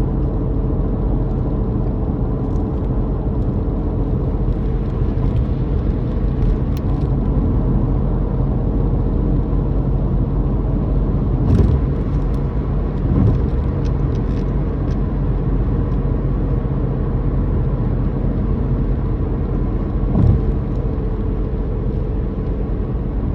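Car's motor droning steadily under a low road rumble while driving, with a few brief thumps around the middle and near the end.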